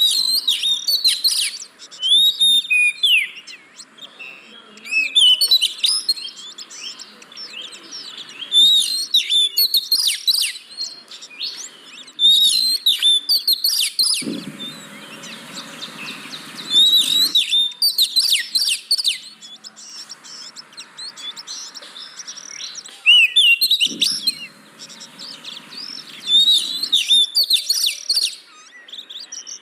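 Oriental magpie-robin singing: bursts of fast, high whistles and chatter, each a second or two long, repeating with short pauses. It is the kind of song played to provoke a silent magpie-robin into singing. Twice, a low steady noise runs under the song for about three seconds.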